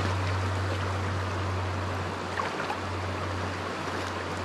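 Steady rush of flowing creek water, with a constant low hum beneath it.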